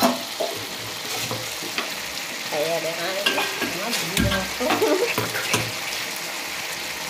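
Chopped capsicum, tomato and onion frying in oil and masala in a kadai, sizzling steadily while a spatula stirs them, with scattered scrapes and knocks of the spatula against the pan. This is the sautéing (kosha) stage, cooking the spices down until the oil separates.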